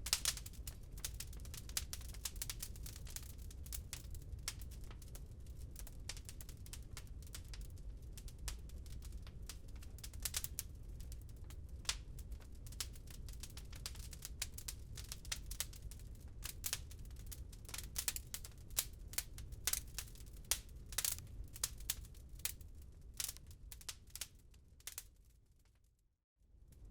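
Wood fire crackling in a fireplace: irregular pops and snaps over a low steady rumble. Near the end it fades out to a moment of silence and then starts again.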